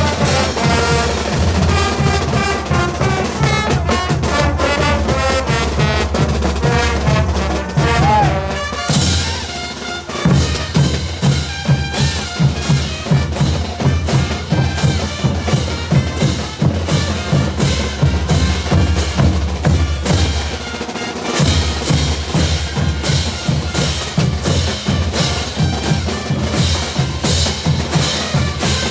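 Brass band playing caporales music: a brass melody for about the first nine seconds, after which bass drums, snare and cymbals take over with a fast, driving beat.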